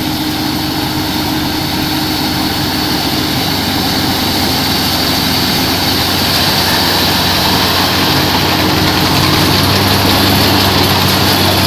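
Rice combine harvester running steadily, its engine and machinery making a continuous drone, growing a little louder toward the end.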